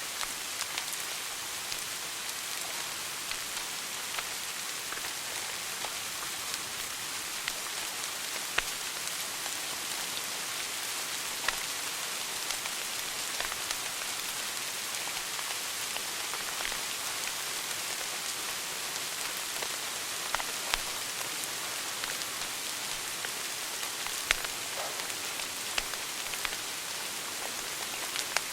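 Wood fire burning in a fireplace: a steady hiss full of small crackles, with a few sharper pops scattered through.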